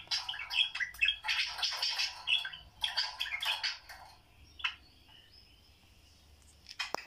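Budgerigars chattering: rapid, overlapping chirps and warbles for about four seconds, then a lull with only a faint thin whistle, and a sharp chirp near the end.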